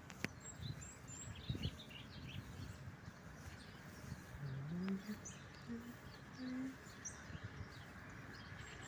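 Small birds chirping and twittering, many short high notes scattered throughout over a steady background hiss.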